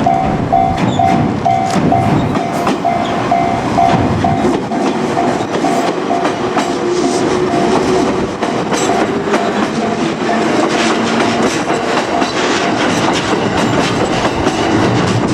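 JR Kyushu 787 series train running past, its wheels clattering over the rail joints. A Japanese level crossing warning bell rings in a steady repeating ding, about two a second, and fades out about two-thirds of the way through.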